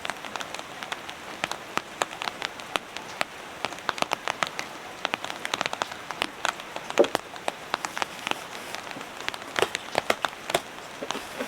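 Steady rain falling, with many sharp, irregular drops striking close by.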